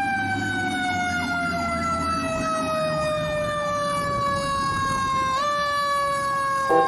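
Fire engine siren sounding one long wail that sinks slowly in pitch, lifts a little about five seconds in and starts rising again near the end, with the truck's engine rumbling underneath.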